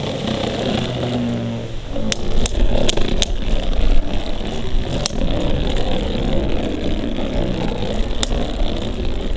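Beyblade spinning tops whirring as they spin in a plastic stadium, with sharp clacks as they collide, several of them in quick succession about two to three seconds in and a few more later. A low wind rumble on the microphone runs underneath.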